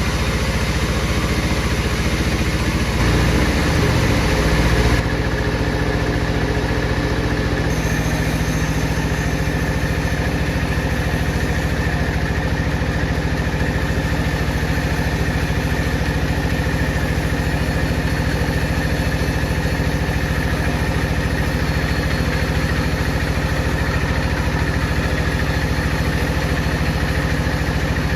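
Bandsaw machinery running with a steady motor drone, briefly louder and changing in pitch about three to five seconds in.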